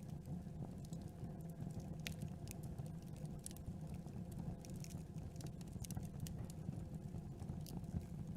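Campfire burning: a steady low rumble of flames with irregular sharp crackles and pops of burning wood, one louder pop about two seconds in.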